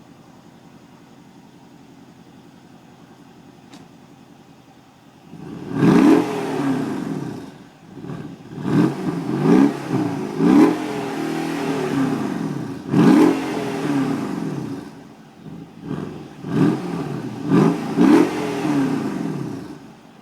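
Mercedes CLS63 AMG's twin-turbo V8 (M157) idling quietly through its exhaust. About five seconds in it is blipped in a series of about eight sharp revs, some held briefly, the engine note falling back after each, before it settles back to idle.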